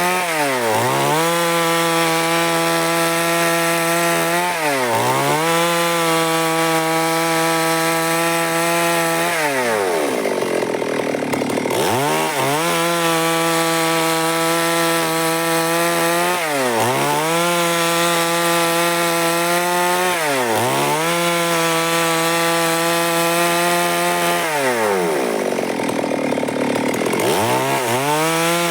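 Stihl MS382 two-stroke chainsaw running at high revs while cutting wood into boards. The engine pitch is mostly steady but drops sharply and climbs back about six times, twice staying low for a couple of seconds.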